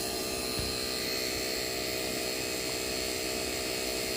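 Harbor Freight Hercules two-stage vacuum pump running quietly while evacuating an HVAC system: a steady, even motor hum with a faint constant high whine.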